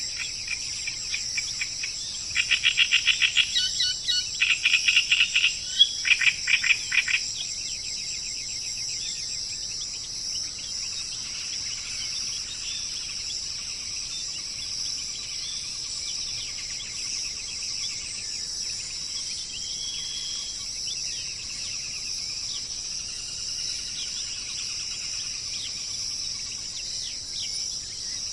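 Birdsong over a steady, high-pitched insect chorus. About two seconds in, a bird sings a loud, fast series of repeated notes for about five seconds; after that only fainter, scattered chirps continue.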